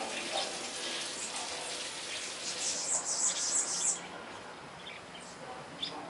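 Small birds chirping, with a rapid run of very high, thin twittering notes about halfway through that lasts over a second and is the loudest part.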